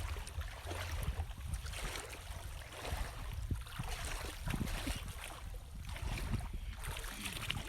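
Floodwater splashing and moving in irregular bursts, over a steady low rumble of wind on the microphone.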